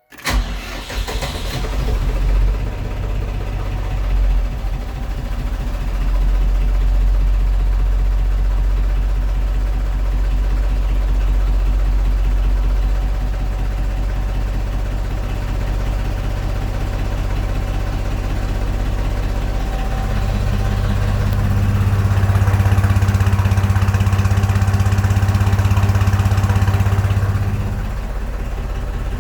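Deutz-Fahr tractor's diesel engine catching on a cold start after standing unused for a month, then idling steadily. About twenty seconds in, its speed rises and holds higher for several seconds before dropping back near the end.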